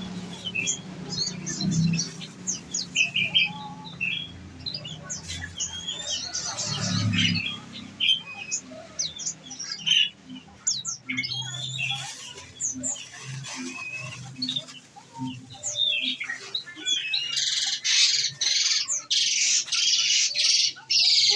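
Olive-backed sunbird (konin) calling: many short, quick chirps and sweeping high notes, then about 17 seconds in a fast, dense trill that runs on, the rapid 'tembakan' song that keepers prize.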